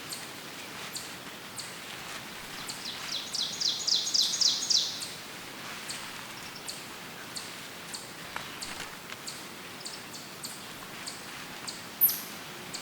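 Woodland birds over a steady background hiss. A bird sings a fast trill of about eight repeated high notes a few seconds in, faint short chips sound throughout, and a single sharp high call falling in pitch comes near the end.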